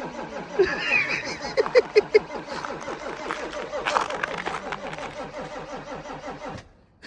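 BMW E61 diesel engine running just after a cold start, with an even, rapid diesel clatter and a few louder knocks in the first couple of seconds. The sound cuts off suddenly near the end.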